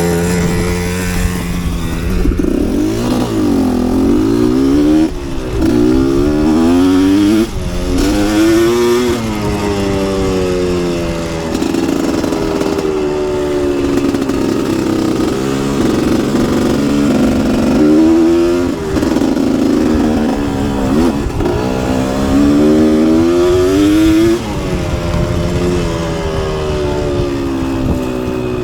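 Two-stroke motocross bike engine being ridden hard, the throttle opened and closed again and again, so the pitch climbs and drops every second or two.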